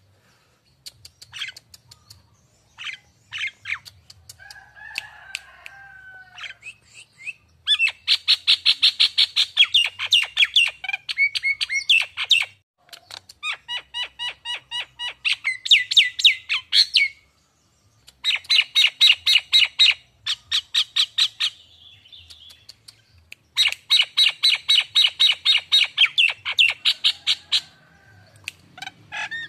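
Nias hill myna calling: a few scattered single notes and a short lower whistle, then several long bouts of loud, rapid chattering of about nine sharp notes a second, each bout lasting a few seconds with short pauses between.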